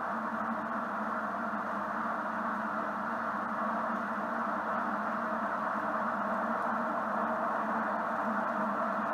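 A steady, unchanging noise with a faint low hum running under it, like a fan or machine hum, with no speech or music.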